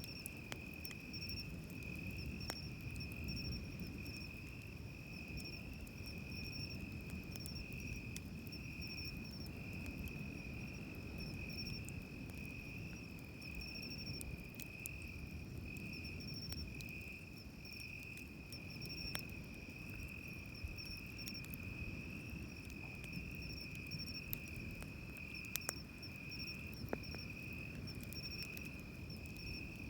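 Crickets chirping steadily on one high pitch, over the low, steady wash of surf. A wood campfire gives occasional sharp crackles and pops.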